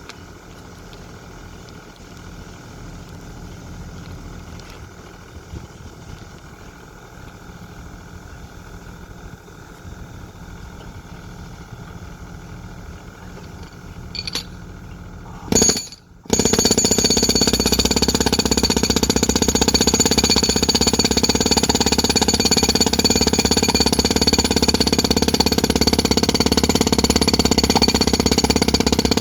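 A quiet steady machine hum, then, after a brief loud burst and a cut about halfway through, a construction machine hammering loudly and rapidly at a steady pace.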